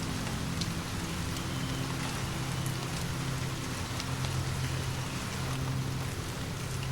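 Steady rain falling, with a low, steady rumble underneath and a few faint ticks scattered through it.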